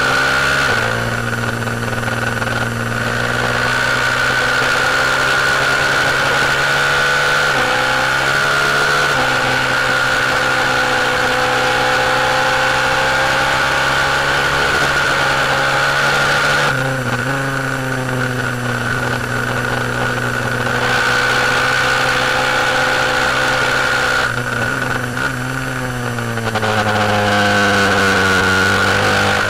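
KTM 690 single-cylinder four-stroke racing motorcycle engine on track, heard from on board: long pulls with the pitch climbing, falling away three times in quick steps as the bike brakes and shifts down, then climbing again. A steady high whine and wind rush run over it.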